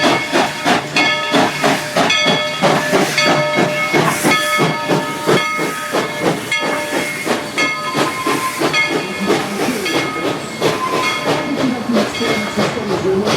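Steam locomotive working: rapid, evenly spaced exhaust chuffs, about three a second, with hissing steam and steady pitched tones ringing over them.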